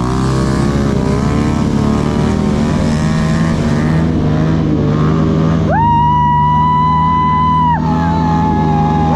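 Motorcycle engines running, with a horn held for about two seconds partway through and a second, slightly lower horn sounding near the end.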